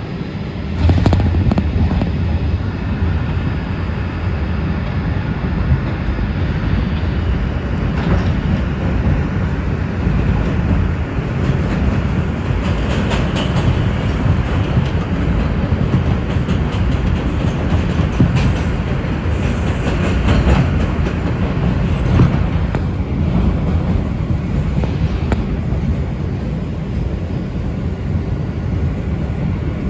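NYC Subway R142 train heard from on board: steady low train noise with scattered clicks and knocks. A low hum comes in sharply about a second in.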